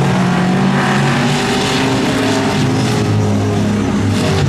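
Monster truck engine running hard and revving, its pitch rising and falling.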